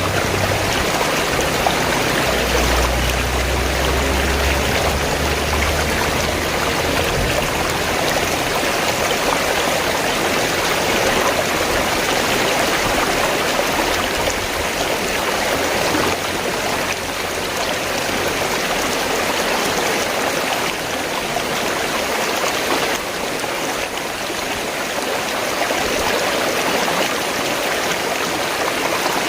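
River water rushing and flowing steadily, with a low rumble underneath for the first several seconds.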